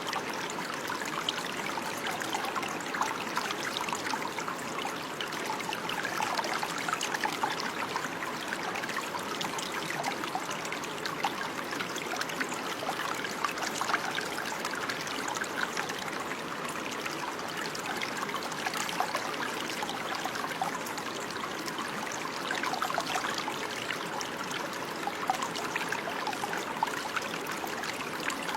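Running water flowing and trickling steadily, a continuous splashing with small babbling splashes throughout.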